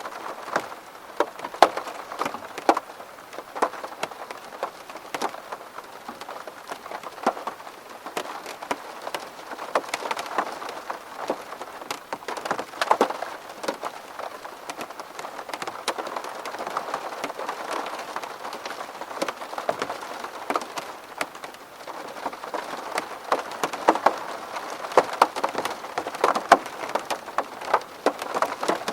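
Steady rain falling on a window, with many separate drops tapping sharply on the glass over a continuous patter.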